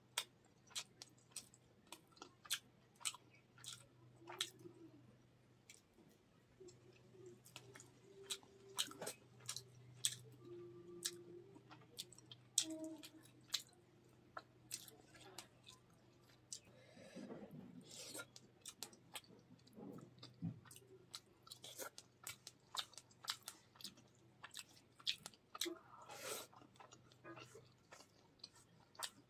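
A person chewing mouthfuls of rice and katla fish curry eaten by hand, close to the microphone: wet chewing and lip smacks heard as an irregular string of sharp clicks.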